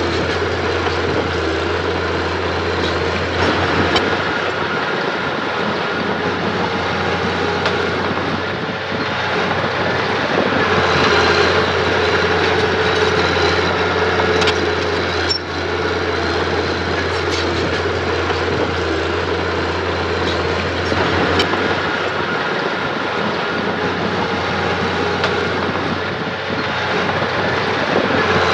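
Heavy construction machine's diesel engine running steadily under work, with a few sharp metallic clicks.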